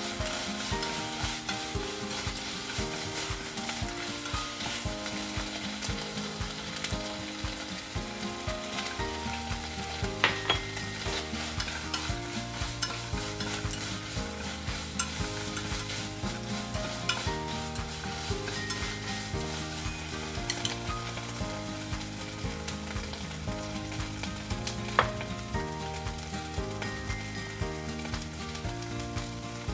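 Green pepper strips sizzling in a nonstick frying pan as they are stir-fried with wooden chopsticks, with a couple of sharp clicks as the chopsticks knock the pan. Background music plays underneath.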